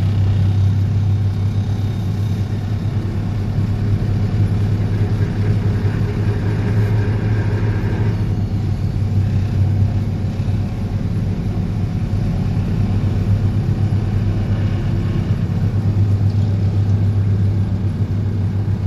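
DPD350T vibro hammer on an excavator, running continuously while vibrating a steel sheet pile into the ground: a loud, steady low drone with no break.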